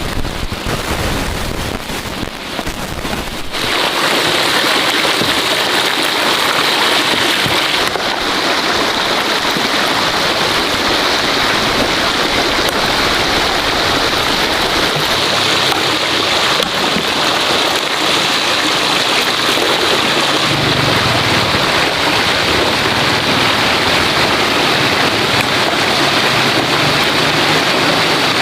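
Steady, dense hiss of falling water, growing louder about three and a half seconds in and then holding steady.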